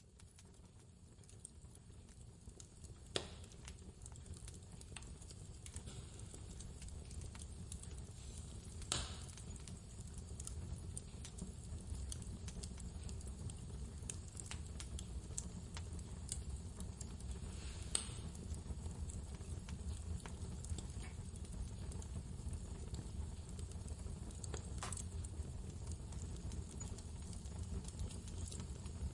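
Wood fire crackling, with scattered small ticks and a few sharp pops, over a steady low rumble of blizzard wind. The sound fades in over the first few seconds.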